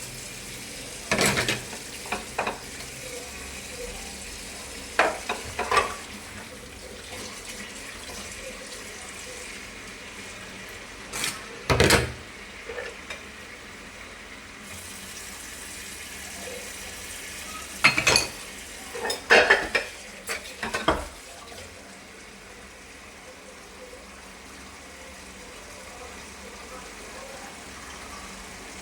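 Bowls and plates clinking and clattering against each other as they are washed by hand, in a few short bunches of knocks, over a steady hiss of running water.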